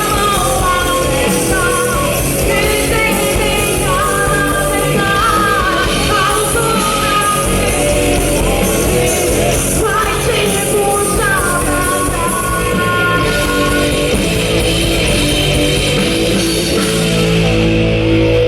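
Live rock band playing loud: a woman singing over distorted electric guitar, bass and drums. Near the end the vocals and cymbals drop out, leaving the guitar and bass holding steady notes.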